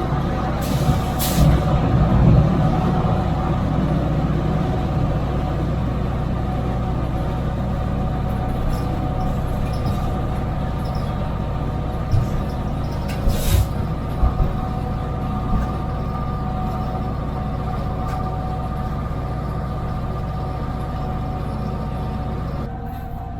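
Cab interior of an EMD GP38-2 diesel locomotive, its V16 two-stroke engine running steadily with a whine of several steady tones. A few brief sharp hisses or knocks come about a second in and again about halfway through.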